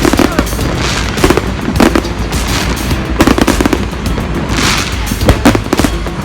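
Fireworks going off: scattered sharp bangs and bursts of crackling, over background music.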